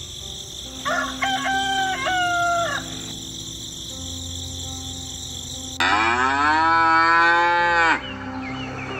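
A rooster crows about a second in. Near the end a cow moos, the loudest sound here, rising in pitch at the start and then held for about two seconds. Soft background music plays under both.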